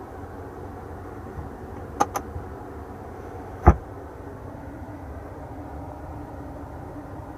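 Two quick plastic clicks about two seconds in, then a single louder knock near four seconds, from the rear armrest and cup-holder fittings being handled, over a steady low background rumble.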